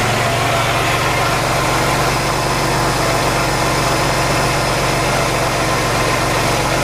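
1991 GMC Sonoma's 4.3-litre V6 idling steadily, a couple of minutes after its first start in about half a year.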